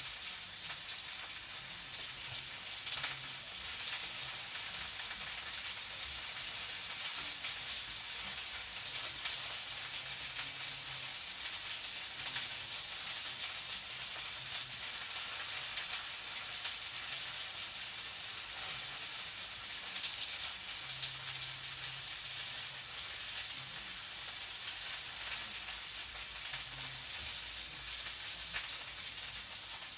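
Food frying in a pan: a steady sizzle with fine crackling.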